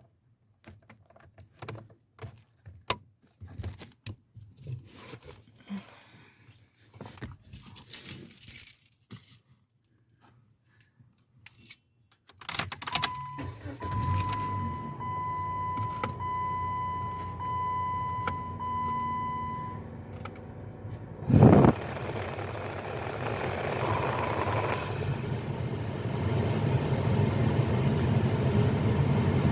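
Keys jangling and small clicks and rattles, then a 2016 Jeep Patriot's dashboard warning chime beeps repeatedly over a low hum. About 21 seconds in the engine cranks briefly, starts, and runs steadily.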